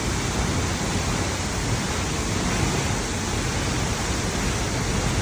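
La Fortuna waterfall: a steady rush of falling water, heavy in the low end and unchanging throughout.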